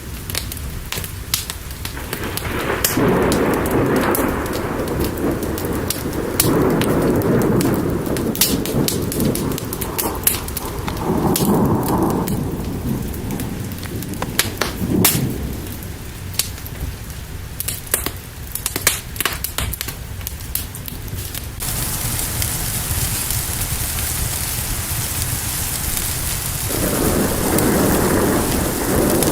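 Rain with rolling thunder: low rumbles swell and fade several times, over a scatter of sharp crackles and ticks. A little past the middle a steady rain hiss comes in suddenly.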